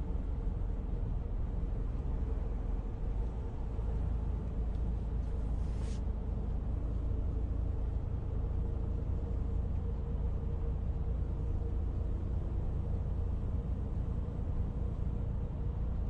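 Steady low rumble of a moving vehicle with a faint constant hum, and a brief hiss about six seconds in.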